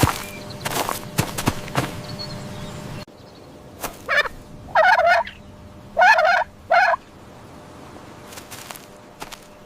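A turkey gobbling: a run of short warbling calls between about four and seven seconds in. Before them, for the first three seconds, a scatter of knocks and clatter that stops abruptly.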